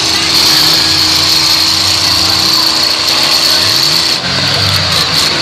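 Several demolition derby cars' engines running hard and revving as the cars push against each other; one engine's pitch rises about three and a half seconds in.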